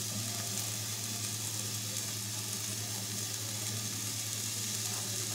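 Chopped onion, capsicum and tomato with ground spices sizzling steadily in oil in a kadhai, over a steady low hum.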